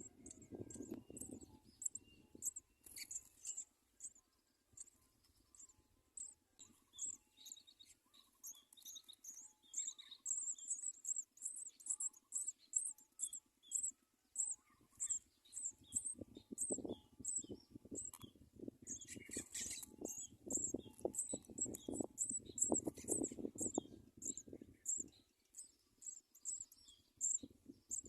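Baby house sparrows chirping: short, high-pitched chirps repeated two or three times a second. Bursts of low rumbling noise come and go, strongest in the second half.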